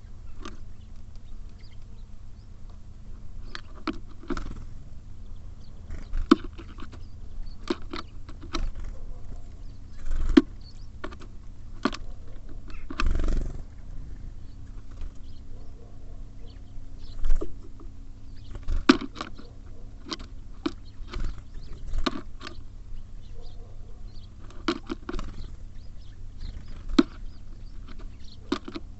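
Small birds at a bird feeder pecking and hopping: irregular sharp taps and knocks of beaks and feet on the feeder, with a few louder knocks, over a steady low hum.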